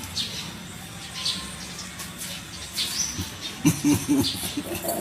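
A few short bird chirps, with a brief run of low rough sounds about three and a half seconds in.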